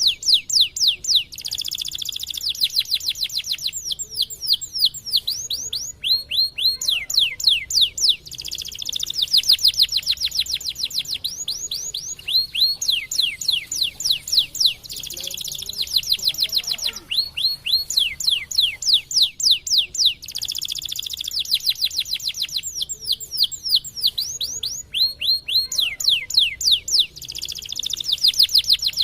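Domestic canary singing without pause: phrase after phrase of fast, high, falling notes, about ten a second, alternating with rapid buzzing rolls.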